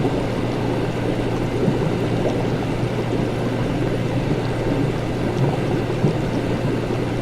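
Laboratory ambience: a steady low hum of running equipment under continuous bubbling liquid, with no pauses or sudden events.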